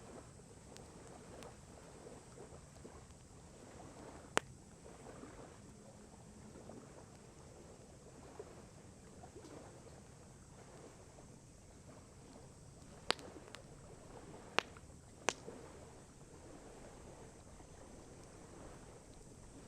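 Wood campfire crackling faintly, with four sharp pops standing out, one about four seconds in and three close together about two-thirds of the way through, over soft lapping lake water.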